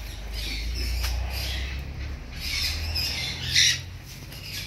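A bird squawking: one short, loud call about three and a half seconds in, over a steady hiss and low rumble.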